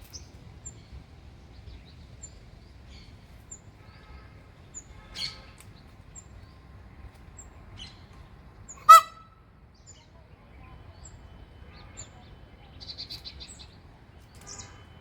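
Birds calling: a thin, high peep repeating roughly every second, scattered chirps and a short chattering burst, and one loud, brief, ringing call about nine seconds in.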